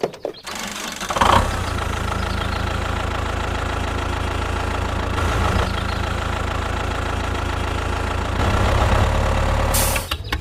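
An engine running at a steady idle, starting about half a second in and cutting off shortly before the end.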